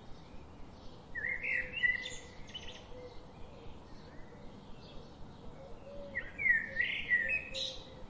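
A bird singing two phrases of quick, varied notes, the first about a second in and the second about six seconds in, over faint scattered chirps.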